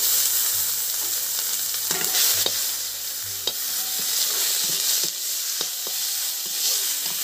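Wet onion paste sizzling in hot oil in a metal kadhai as it is stirred, a steady hiss with scattered clicks and scrapes of a metal spoon against the pan.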